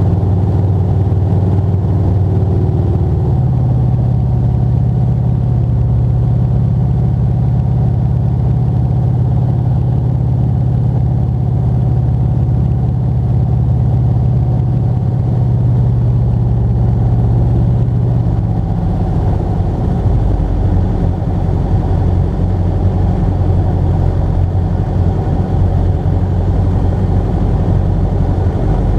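Motor glider's piston engine and propeller droning steadily. The engine note steps up about three seconds in and drops back down about eighteen seconds in as engine speed changes.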